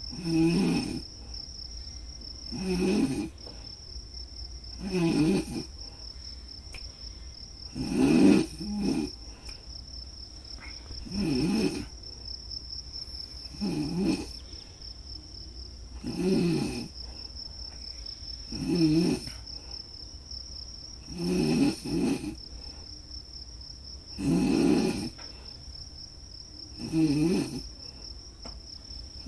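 Snoring, one deep snore roughly every two and a half seconds, over a steady high-pitched chirping of crickets.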